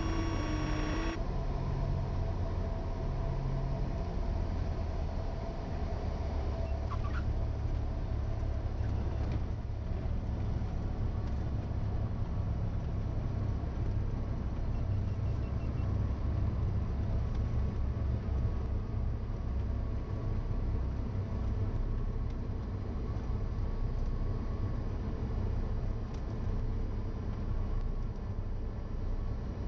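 Steady low drone of a 1977 Cessna 172N's four-cylinder engine and propeller, heard inside the cabin through the intercom recording. The radio's hiss cuts off about a second in.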